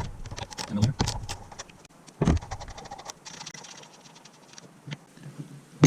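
Hand tools and parts clicking and clinking as they are handled, with a heavier knock about two seconds in and a sharp click near the end.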